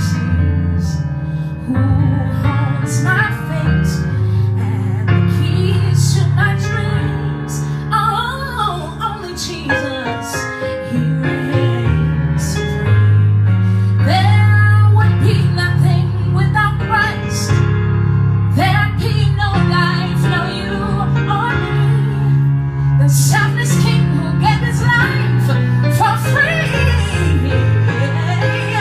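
Gospel song with a woman singing over sustained keyboard chords and a held bass line.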